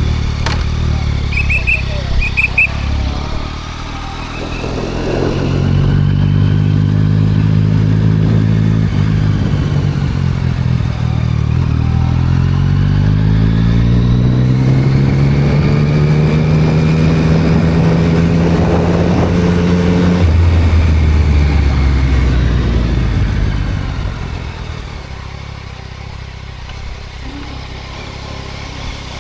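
A 2024 Yamaha MT-09 SP's three-cylinder engine, breathing through a Spark full exhaust, running under way. About five seconds in it pulls harder, and the revs climb in a long rise until about twenty seconds in, then drop. It runs lower and quieter near the end.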